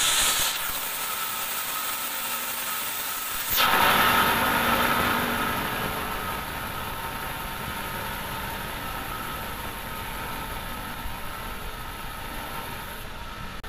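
Large band sawmill running steadily, with a thin high whine over a machine hum. About three and a half seconds in there is a sudden louder rush that dies down over the next couple of seconds.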